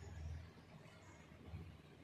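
Faint sizzle of chicken frying in oil in a lidded pan.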